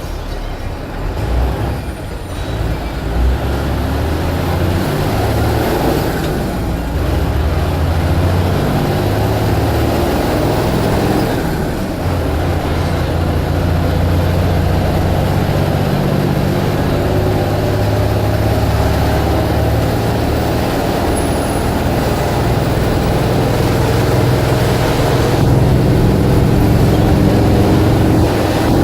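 Blue Bird All American bus engine running as the bus drives, a steady drone whose pitch steps up and down several times.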